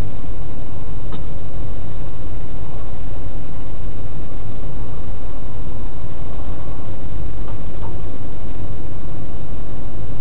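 Car driving along an expressway: a steady, loud low rumble of engine and road noise, with a couple of faint ticks.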